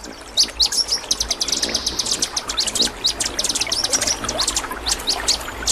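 Small birds chirping and twittering in a rapid, high-pitched stream of short notes, several a second and overlapping.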